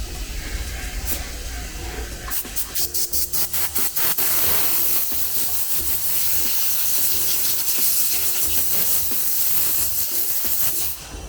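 Compressed air hissing from a pneumatic tool such as a spray gun or air blow gun. First comes a quick string of short bursts, then about six seconds of continuous hiss that cuts off near the end.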